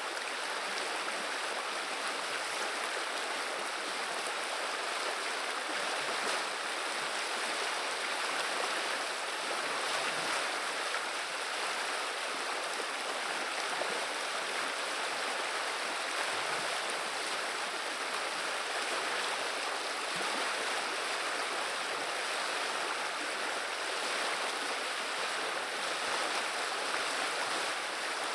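River water running and babbling over its bed: a steady, even rush of flowing water with no pauses or changes.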